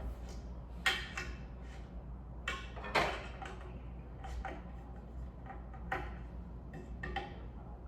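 Small hardware being handled while fitting ceiling-fan parts: a scatter of short clicks and knocks, the loudest about a second in and about three seconds in, over a steady low hum.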